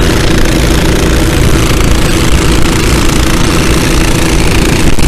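Engine-driven water pumps running steadily, a loud hum over a low rumble, drawing lake water to fill the AquaDam. The sound cuts off suddenly at the very end.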